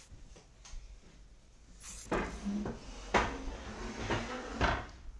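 Microwave door opened and a bowl set inside, giving a few separate clunks and knocks.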